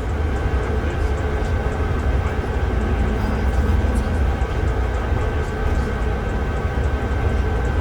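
Interior of a Mercedes-Benz O307 city bus on the move: steady low diesel engine drone and road rumble, with a thin steady whine above it.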